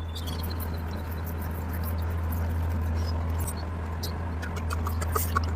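Close-up eating sounds of chewing curry and rice: soft wet mouth clicks and smacks, with a few sharper smacks near the end, over a steady low hum.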